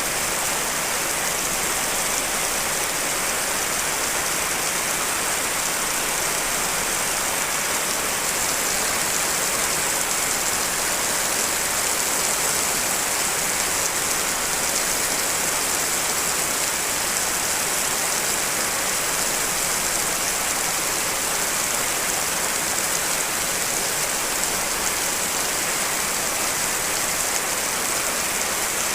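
Steady rain: a layered mix of rain recordings making an even, unbroken hiss.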